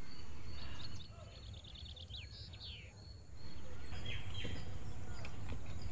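Birds chirping: a quick trill and a couple of downward-sweeping calls about a second in, and more short chirps near the fourth second, over a steady low rumble and a steady high-pitched whine. The rumble drops away for about two seconds in the middle.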